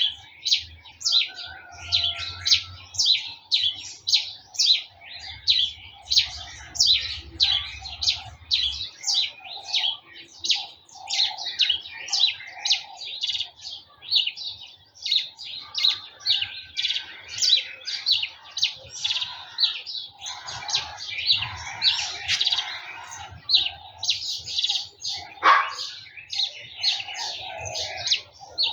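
Garden birds chirping rapidly and continuously, several short high chirps a second.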